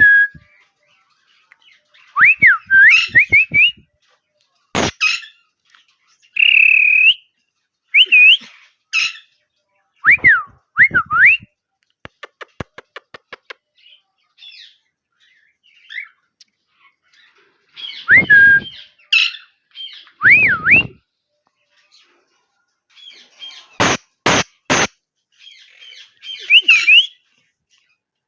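Male cockatiel whistling in short swooping glides that dip and rise, mixed with harsher squawks and chirps. About halfway there is a quick run of ticks, and near the end three sharp clicks come in quick succession.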